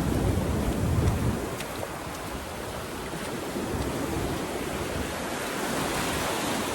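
Ocean surf washing onto a sandy beach, with wind buffeting the microphone; the low rumble of the wind is heaviest for the first second and a half, then eases.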